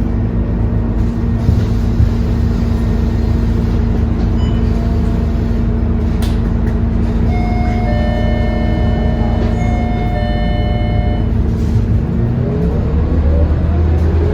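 Scania K230UB bus engine heard from inside the cabin, idling with a steady hum while the bus stands at a stop. A steady electronic tone sounds for about four seconds in the middle. Near the end the engine rises in pitch as the bus pulls away.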